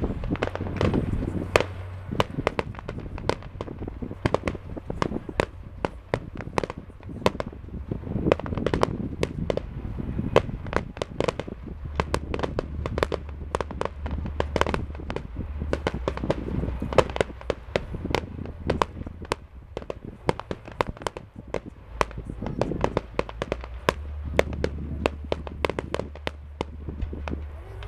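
Fireworks display: aerial shells bursting in a dense, continuous barrage of sharp bangs, several a second.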